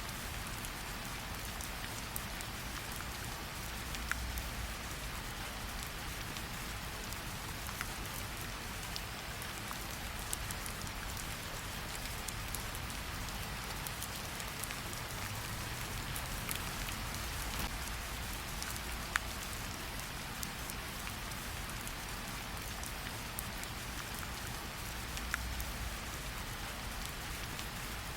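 Rain and fireplace ambience: steady rain hissing, a low rumble underneath and a few scattered sharp pops of burning wood, one louder pop a little past the middle.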